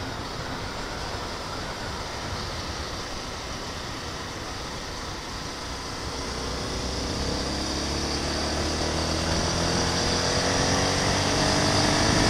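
Honda CB 250F Twister's single-cylinder engine running under way, with a steady rush of riding wind. About halfway through the engine pulls harder, its pitch climbing steadily and the sound growing louder as the motorcycle accelerates.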